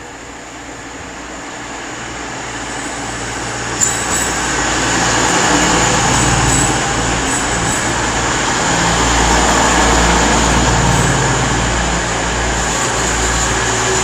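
Class 222 Meridian diesel multiple unit arriving at the platform, its noise building over the first few seconds and then holding steady as its underfloor diesel engines run. A sharp click comes about four seconds in.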